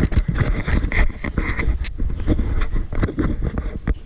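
Close, irregular knocking, clattering and scraping over a low rumble: things being handled and moved right by the microphone.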